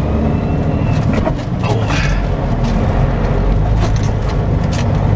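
Semi-truck cab interior while driving: the diesel engine and road noise make a steady low rumble, with a few short clicks or rattles.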